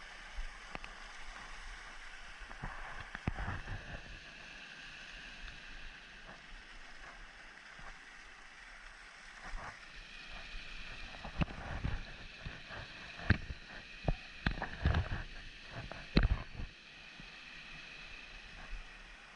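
Shallow forest stream running over rocks. A cluster of splashes and knocks from about ten to seventeen seconds in stands out above the steady water sound.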